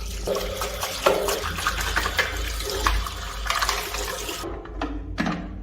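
Dirty water and debris pouring out of a wet-dry vacuum mop's dirty-water tank, a steady splashing gush that stops about four and a half seconds in.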